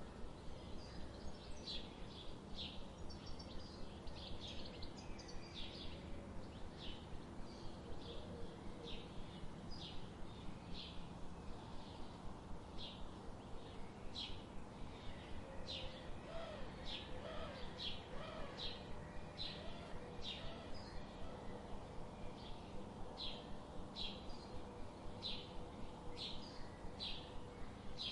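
A bird chirping over and over: short, high chirps repeating steadily at roughly two a second. A few fainter, lower calls come in about halfway through, over a steady low background hiss.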